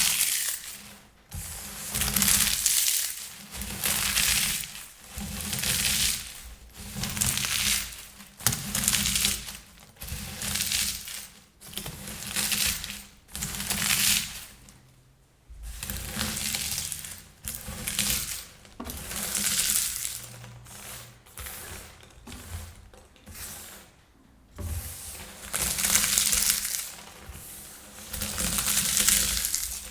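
Air-popped popcorn crushed by hand close to the microphone: a run of crisp crunching and crackling squeezes, each lasting a second or two, with short pauses between.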